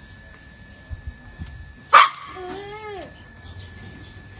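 Puppy barking: a loud, sharp yap about two seconds in, followed straight away by a short yelp that rises and falls in pitch.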